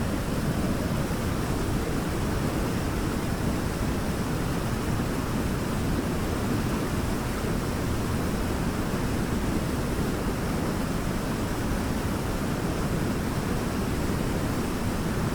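Waterfall pouring steadily: a constant deep rush of falling water, strongest in the low range, with no breaks.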